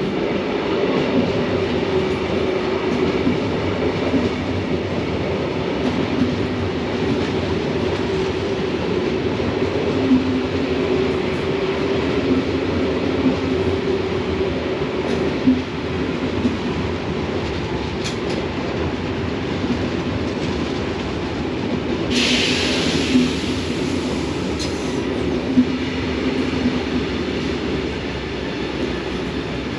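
A slow train running past on the tracks, a steady pitched hum throughout, with a short hiss about three-quarters of the way through.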